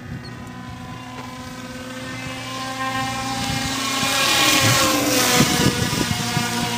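Radio-controlled model airplane's motor and propeller buzzing in flight, getting louder as it comes closer and dropping in pitch as it passes, loudest about four to five seconds in. It is running at about half throttle.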